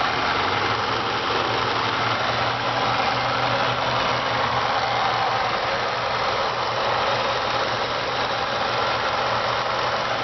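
Saturn Ion's Ecotec 2.2-liter four-cylinder engine idling steadily.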